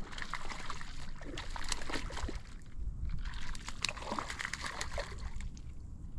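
Water splashing and sloshing in quick, irregular bursts, dying down near the end.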